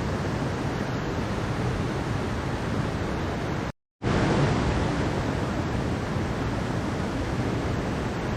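Mountain stream water rushing steadily, cutting out completely for a split second about four seconds in and coming back a little louder.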